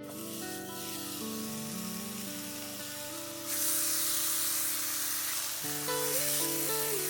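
Background music with steady guitar-like tones over food sizzling on a hot pan or grill. The sizzle gets louder about three and a half seconds in.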